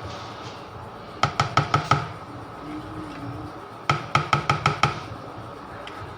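Two quick runs of five or six sharp clicks, each about a second long, from the oven being switched on and set, over soft background music.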